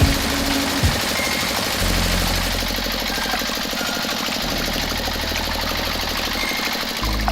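Tractor engine sound running steadily, a low hum under a dense hiss.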